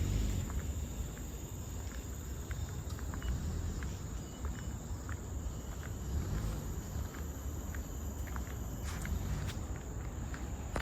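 Insects shrilling as one steady, high-pitched drone, with a second, higher tone joining from about three to nine seconds in. Light footsteps on the trail and a low rumble run underneath.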